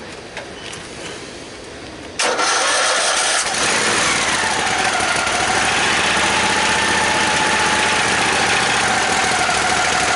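A vehicle engine cold-starting: about two seconds in it cranks briefly, catches, and runs at a fast idle whose pitch gradually drops as the idle settles.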